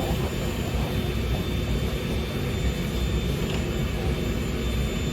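Steady low mechanical rumble with a faint, steady high whine above it, typical of engines and machinery running.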